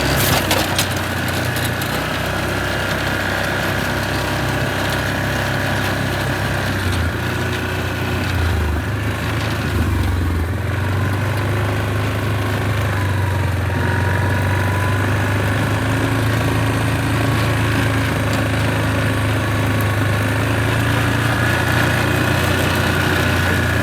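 A small engine running steadily, as on a farm vehicle on the move, with its low pitch shifting briefly about eight to ten seconds in.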